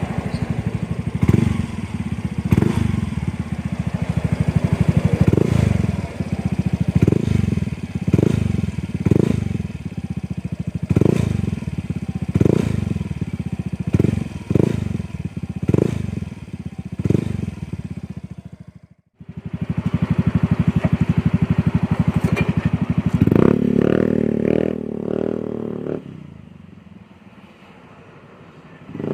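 Motorcycle with an aftermarket R8 'chicken pipe' exhaust being revved in short repeated throttle blips, about one every second or so. After a brief sudden dropout it runs steadily, is held at a higher rev for a couple of seconds, then settles quieter before one more blip at the end.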